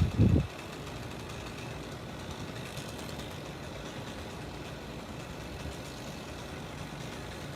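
An engine idling steadily at a distance, after a short, heavy low thud right at the start.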